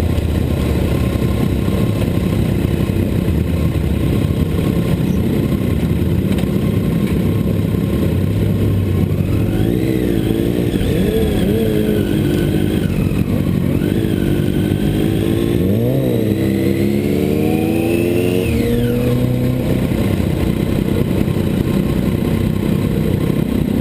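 Sport motorcycle engine running under a steady loud rushing noise. Between about 9 and 19 seconds in, the revs rise and fall several times, then drop away sharply.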